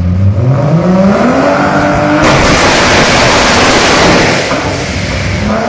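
A modified car engine revving, its pitch climbing steadily for about two seconds, then a loud rushing noise from the exhaust for about three seconds that eases off near the end.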